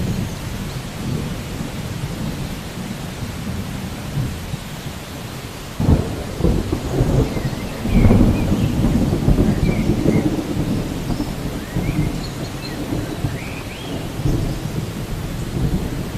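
Thunderstorm: steady rain with rolling thunder. A thunderclap breaks in suddenly about six seconds in and rumbles on, loudest about two seconds later, then settles back into the rain and low rumble.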